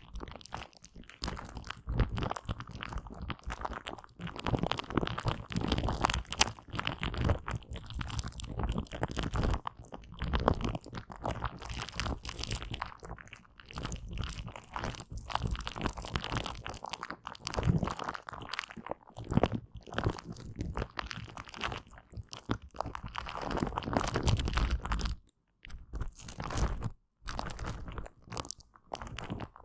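Aloe vera gel being wiped and smeared close to the microphone, a dense, irregular run of sticky crackling. It cuts out briefly twice, about 25 and 27 seconds in.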